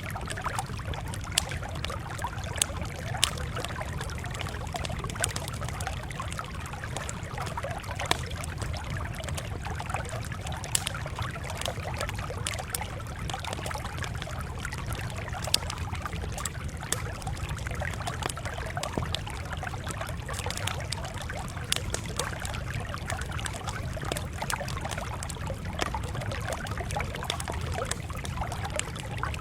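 Crackling campfire: a steady hiss broken by frequent irregular sharp pops and snaps, over a low steady rumble.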